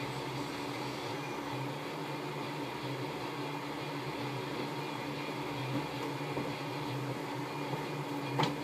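A steady mechanical hum that holds the same pitch throughout, with a short click near the end.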